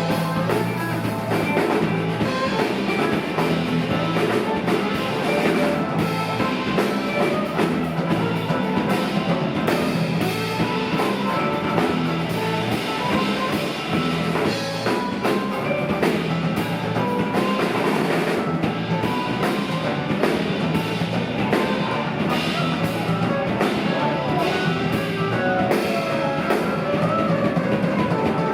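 Live rock band playing an instrumental passage: drum kit, electric guitar and bass guitar, with no singing.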